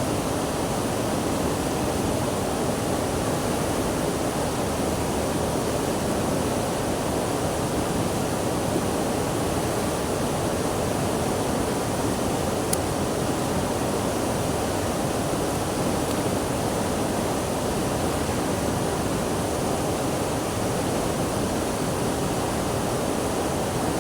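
Rushing water: a steady, unbroken wash of noise with no surges.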